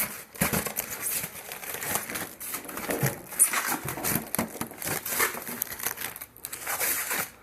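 Plastic packaging crinkling and rustling as it is handled, in an irregular run of crackles.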